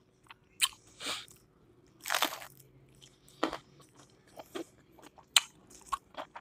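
A person biting into and chewing crispy battered fried food close to the microphone: irregular crunches and wet mouth clicks, the biggest crunch about two seconds in.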